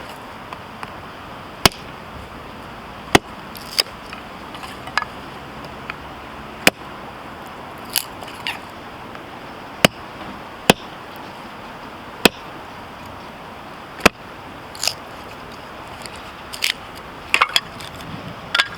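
Firewood giving about a dozen sharp, short cracks at irregular intervals, several in quick succession near the end, over a steady hiss.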